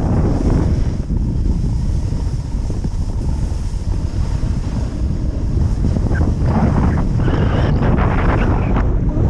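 Gusty wind buffeting the microphone with a heavy low rumble, with a rougher hiss joining in over the last three seconds or so.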